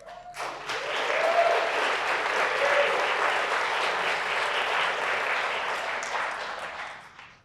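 Audience applauding, with a few cheers in the clapping; it starts about half a second in, holds steady and dies away near the end.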